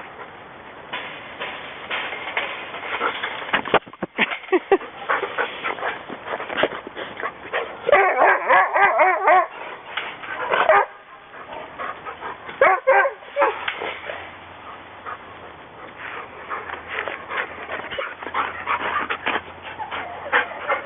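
Excited wolfdogs whining and yipping, with a run of high, wavering whines about eight seconds in and another short one near thirteen seconds. Short clicks and rattles run throughout.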